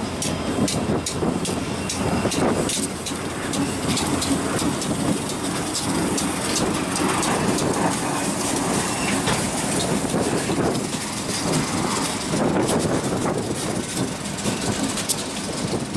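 A consist of several Union Pacific diesel-electric locomotives passing close by at speed, their engines running steadily, with rapid sharp wheel clicks over the rail joints. Near the end the locomotives give way to the first covered hopper cars.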